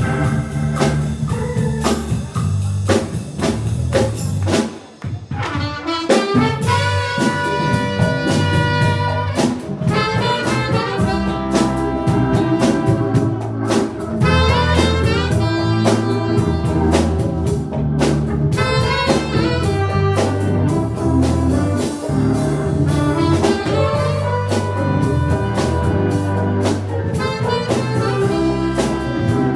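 Live jazz band playing: a horn carries the melody over a moving bass line and drums, with a brief break in the music about five seconds in.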